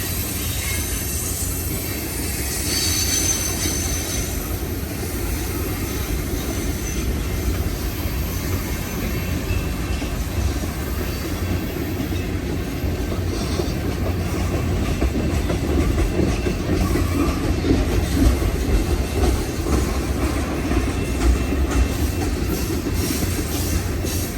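Long freight train's cars rolling past, a steady rumble of steel wheels on rail, with a brief high wheel squeal a few seconds in.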